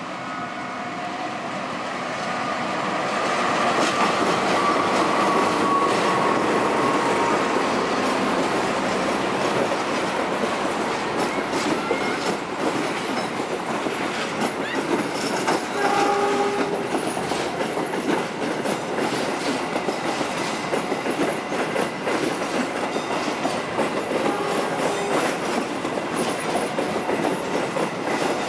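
A diesel-hauled passenger train approaches and passes close by. The locomotive grows louder over the first few seconds, then the coaches roll past with wheels clattering over the rail joints. A short horn blast sounds about halfway through.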